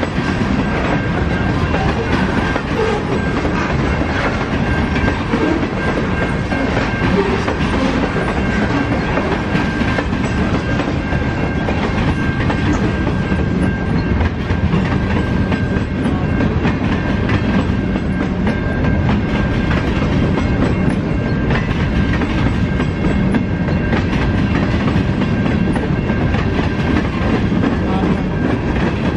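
A train rolling past at close range: a steady rumble of railcar wheels with clickety-clack over the rail joints, and a faint steady whine above it.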